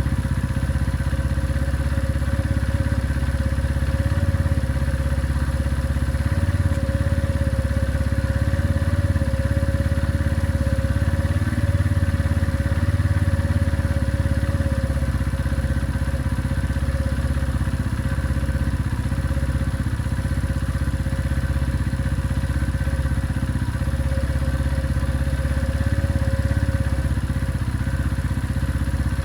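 Benelli Keeway 125 motorcycle engine idling steadily, with no revving.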